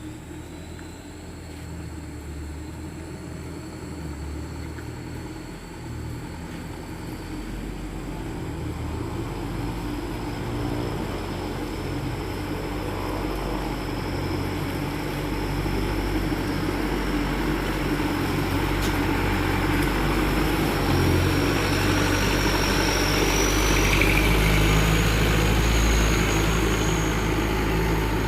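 Mitsubishi Canter dump truck engine running, growing steadily louder, with a thin high whine that climbs slowly in pitch.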